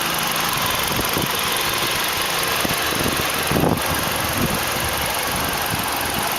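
2010 Hyundai Elantra Touring's 2.0-litre 16-valve DOHC inline four-cylinder idling steadily, heard from the open engine bay.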